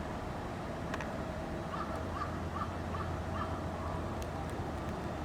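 A bird giving five short calls in quick succession, about two a second, over steady low background noise.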